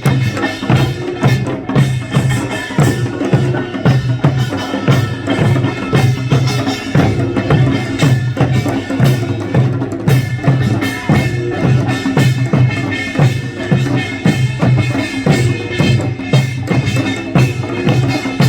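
Korean folk percussion music: drums and other percussion keep a fast, steady beat.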